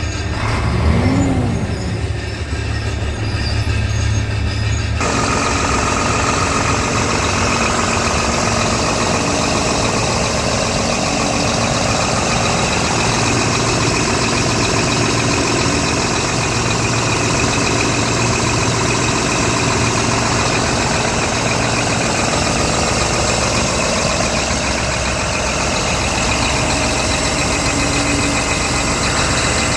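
Scania R tractor unit's diesel engine running steadily. About five seconds in, the sound changes abruptly to a louder, fuller hiss-laden rumble that stays even.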